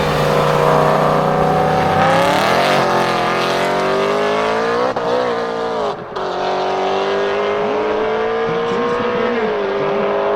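Supercharged BMW M3 E92 V8 with an Akrapovic exhaust pulling hard under acceleration, its pitch climbing. About six seconds in it drops sharply with a brief dip in loudness at a gear change, then climbs again.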